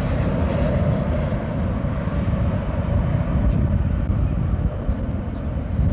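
Jet airliner engines, a steady rush with a heavy low rumble; a thin whine in it fades over the first couple of seconds as the plane moves off.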